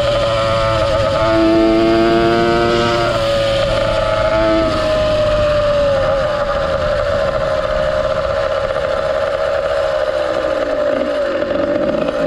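Ported 100cc two-stroke motorized-bicycle engine with a YZ85 expansion pipe, running at high revs under way. Its note holds steady, then eases slightly lower over the last several seconds.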